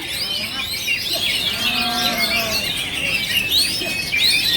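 Many oriental magpie-robins singing at once, a dense chatter of overlapping whistles and trills. About two seconds in, a drawn-out low call like a person's voice rises and falls under the birdsong.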